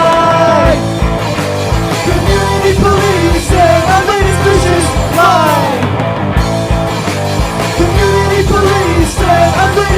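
Punk rock band demo playing: distorted electric guitars, bass and drums, with sung vocal lines.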